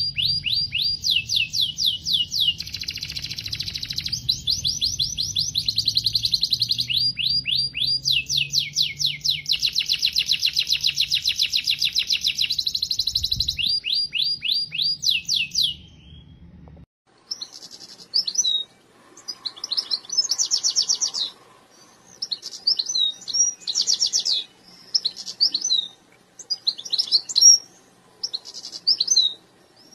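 Domestic canary singing. Long rolling trills of rapidly repeated notes run for the first sixteen seconds or so over a low hum. After an abrupt change the song comes in shorter phrases broken by brief pauses.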